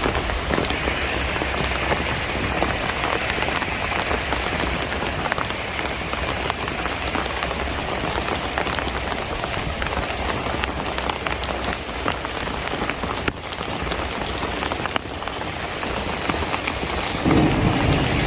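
Steady monsoon rain falling on surfaces, with many individual drops ticking through an even hiss. About a second before the end, a louder, lower rushing sound comes in.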